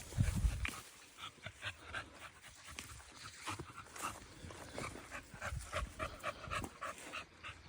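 American bully puppy panting in quick, short breaths, with a low thump right at the start.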